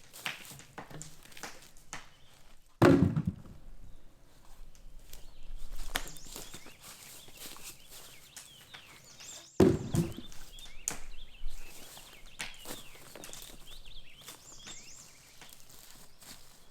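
Two heavy thunks, about seven seconds apart, each with a short low ring, among smaller knocks and footsteps, with birds chirping.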